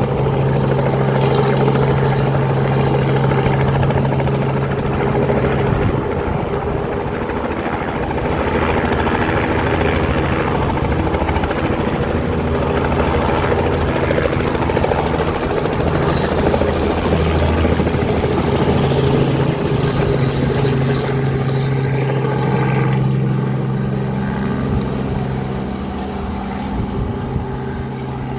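Helicopter engine and rotor running, a loud steady drone with a low hum that drops away about a fifth of the way in and returns about two thirds of the way through.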